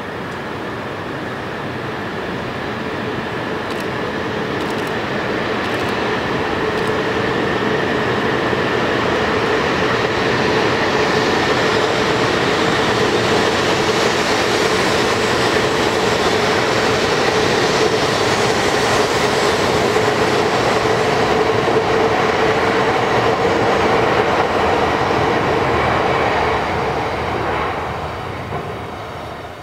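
E2 series Shinkansen train pulling out of the station and gathering speed, its running noise building over several seconds with a steady hum in it, holding, then dropping away near the end.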